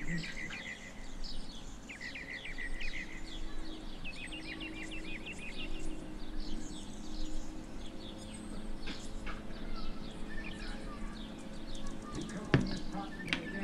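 Small birds chirping and trilling in quick repeated phrases, with one sharp click near the end.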